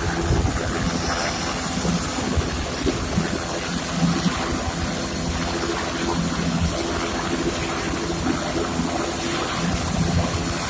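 Helicopter flying, a steady drone of engine and rotor with a low hum that fades in and out.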